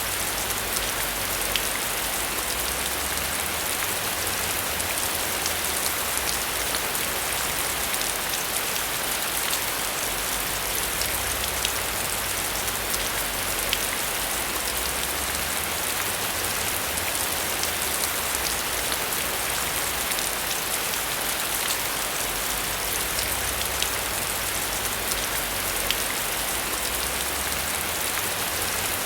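Steady heavy rain: a dense even hiss with many individual drops ticking sharply through it, over a low rumble that swells and fades every few seconds.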